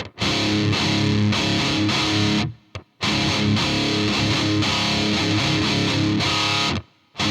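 Distorted electric guitar strummed in two phrases that stop abruptly, recorded through a UAD Volt 276 interface with its 76 compressor and Vintage mode engaged, a setting that the player says causes popping artifacts. A short click sounds in the pause between the phrases.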